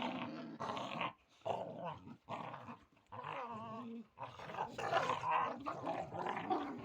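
Kangal dog growling in a series of short, wavering bouts with brief pauses between them.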